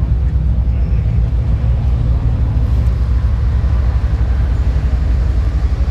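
Supercar engines running at idle, a steady low rumble with no revving.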